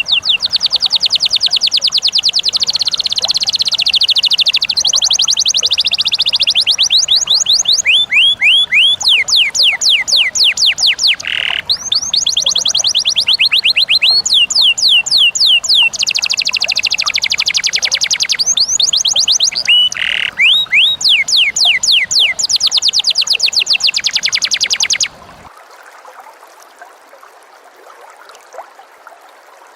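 Lovebird's long 'ngekek' chatter: a rapid, loud, unbroken series of sharp, falling chirps, several a second, running for about 25 seconds. It then stops abruptly, leaving a faint trickle of water.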